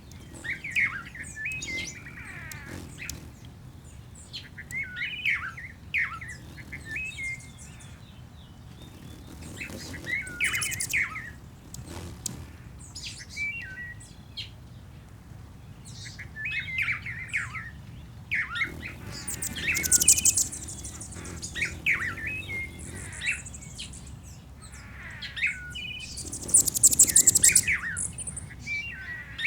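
Several songbirds singing and chirping, with short warbled phrases repeating every few seconds and high, thin trills that grow louder in the second half.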